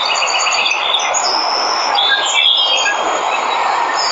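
Steady rushing of a waterfall, with birds chirping over it: a quick run of short notes in the first second and high, thin calls throughout.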